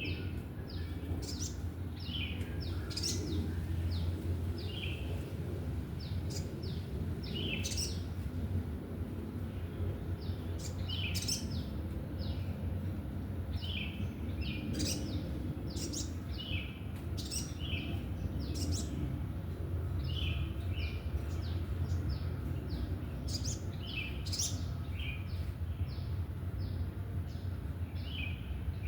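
Wild sogon bird singing the same phrase over and over every few seconds: a quick high upward sweep, then a run of short, sharp chirping notes. A steady low hum runs underneath.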